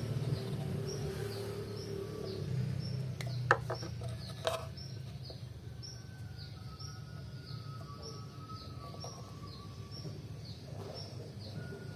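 A bird chirping over and over in the background, short falling notes about twice a second, over a steady low hum. Two sharp knocks land about a second apart, a third of the way through.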